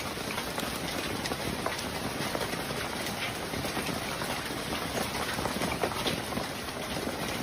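Hailstorm: rain and hail pelting down in a steady dense patter, with many sharp ticks of separate impacts scattered through it.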